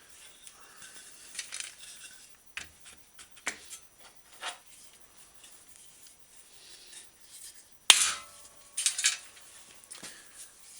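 Scattered clinks and knocks of a steel bicycle fender and hand tools being handled and set in place. The loudest is a single sharp metallic strike about eight seconds in that rings briefly, followed by a few more clinks a second later.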